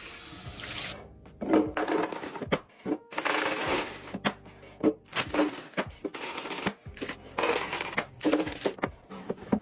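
Food packaging and containers being handled while restocking a fridge: bursts of crinkly rustling about a second long, several times over, with sharp clicks and knocks as items are set down.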